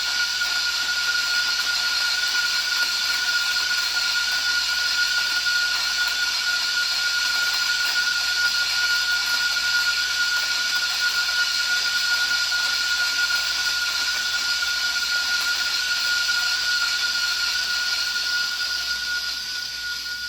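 Option-O Lagom Casa electric coffee grinder running steadily, its conical burrs grinding a 19 g espresso dose, with a constant high motor whine over a grinding hiss. It grows quieter near the end as the dose runs out.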